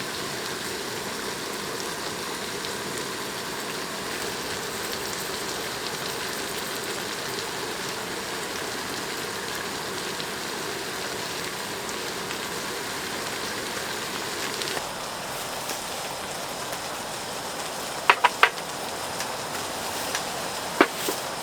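Food sizzling steadily on a hot camping griddle, easing off a little in its upper hiss about fifteen seconds in. Near the end, a few sharp clicks of utensils knock on the pan.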